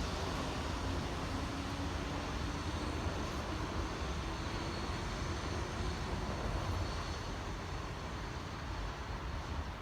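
Keihan electric train running past, a steady rumble with a faint motor tone, easing off over the last few seconds.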